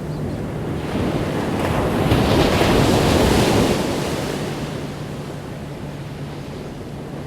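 Ocean waves on a beach: one wave breaks and washes in, swelling from about a second in to a peak in the middle, then fading away.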